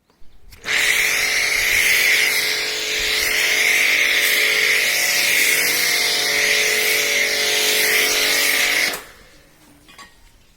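High-pressure car-wash sprayer running: a steady motor hum under loud hissing spray. It starts a moment in and cuts off suddenly near the end.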